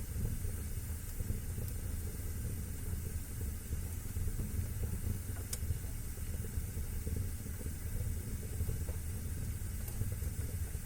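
Fire burning in a fireplace: a steady low rumble and hiss, with two sharp crackles, one about halfway and one near the end.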